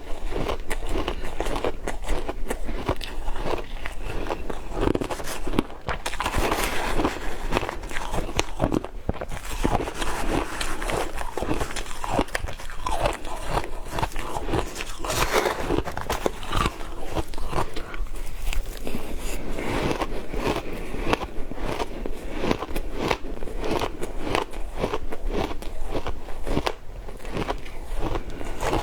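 Frozen matcha ice being bitten and crunched in the mouth: a dense, continuous run of sharp crunches and crackles with chewing between bites.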